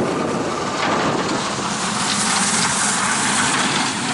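Strong north wind blowing across the microphone, a steady loud rushing that rises and falls a little.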